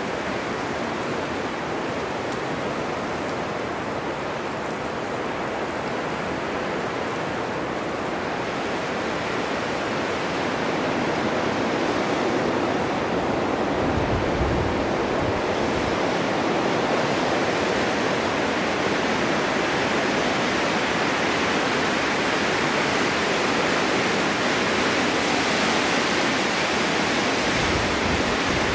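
Steady snowstorm wind blowing, swelling a little louder and brighter about a third of the way in, with two brief low rumbles of gusts, one about halfway and one near the end.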